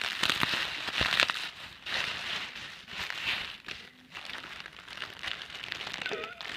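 Bubble wrap and plastic packaging crinkling and rustling in uneven bursts as a parcel is unwrapped, with a brief wavering squeak near the end.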